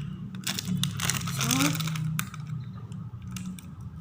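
Toy packaging being crinkled and torn open by hand, an irregular run of crackles as a mystery toy package is unwrapped.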